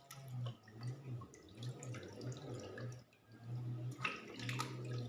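Water splashing and dripping during a small animal's bath, with a low hum that breaks off now and then.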